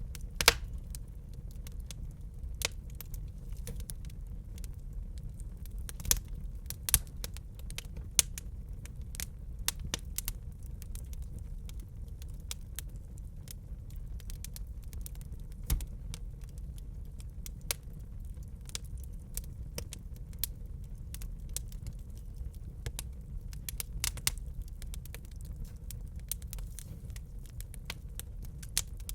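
Wood fire in a fireplace crackling, with irregular sharp pops and snaps, a few of them loud, over a steady low rumble of burning.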